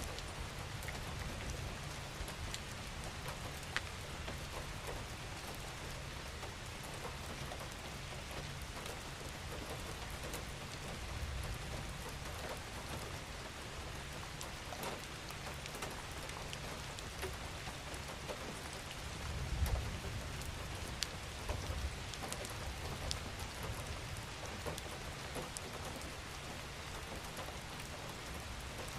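Steady rain falling, with scattered close drops ticking sharply on a surface over an even hiss and a low rumble underneath that swells briefly about two-thirds of the way through.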